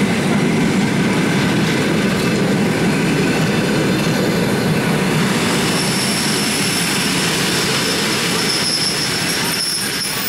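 Passenger coaches rolling slowly past while braking to a stop, the wheels rumbling and clattering. A steady high-pitched squeal from the running gear sets in about halfway through.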